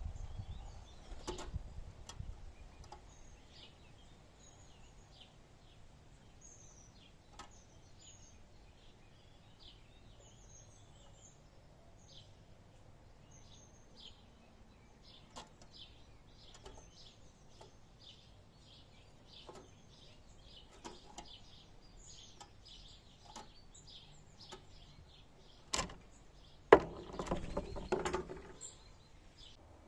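Small birds chirping in short, high notes throughout, with scattered single taps. Near the end come two sharp, loud knocks and about two seconds of clattering.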